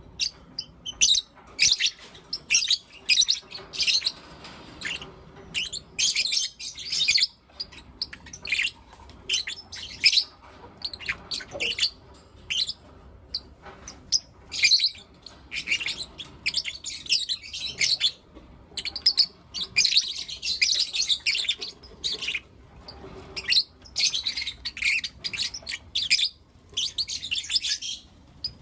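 Lovebirds chirping: rapid runs of high, short chirps in bursts of a second or two, with brief pauses between them.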